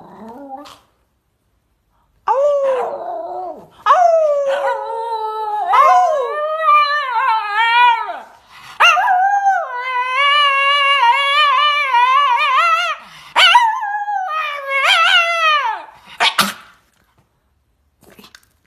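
A dog howling in four long, wavering, high-pitched calls, followed by a short sharp sound near the end.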